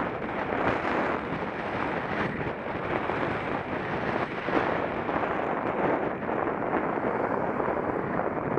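Wind blowing over a Contour action camera's microphone while cycling: a steady noisy rush with no tones.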